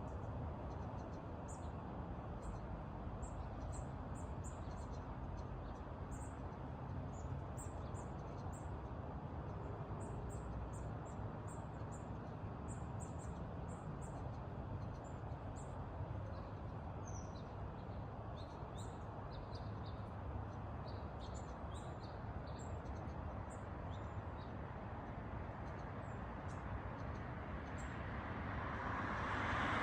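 Small songbirds chirping, many short high calls through the whole stretch, over a steady rushing background noise. Near the end a louder rushing noise swells up.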